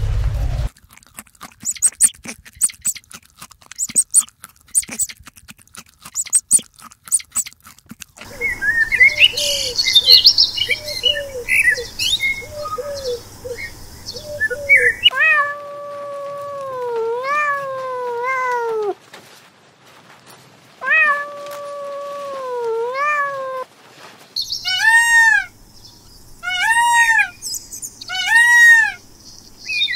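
A sequence of animal calls. First comes a stretch of crackling clicks. Then come rapid short chirps, then two long wavering calls that slide down in pitch, and from near the end short arched calls repeated about once a second.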